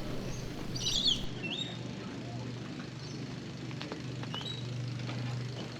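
Birds chirping briefly about a second in, over a steady low hum of outdoor background noise.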